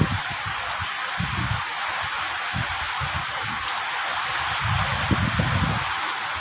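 Steady rain falling, an even hiss with scattered drop ticks, with low rumbles coming and going underneath.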